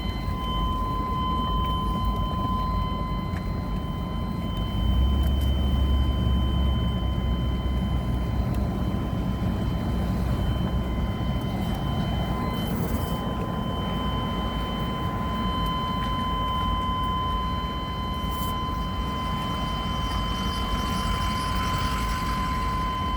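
1990 GMC Sierra pickup driving, its engine and road noise rumbling and swelling about five seconds in, with the truck's warning buzzer stuck on, giving a constant steady high tone throughout.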